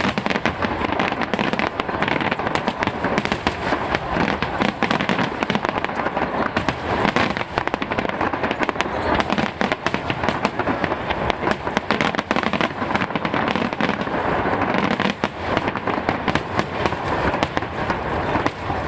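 A fireworks display going off in a dense, continuous barrage: rapid overlapping bangs and crackles with no pause.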